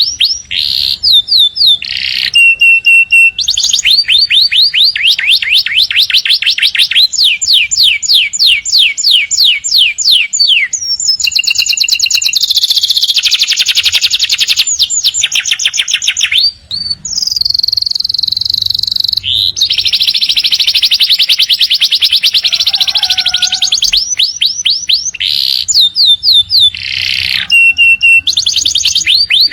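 Domestic canary singing a long, loud, continuous song: runs of rapid repeated falling notes, many a second, changing from one run to the next, with a held whistle about halfway through.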